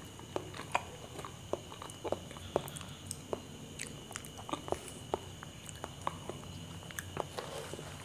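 Close-miked mouth sounds of someone chewing soft ripe banana: irregular wet smacks and clicks, about two a second.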